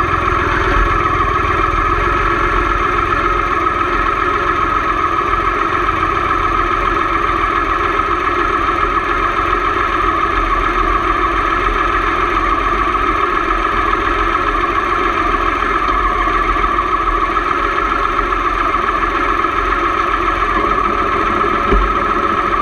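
Motorcycle engine running at a steady, even pitch throughout.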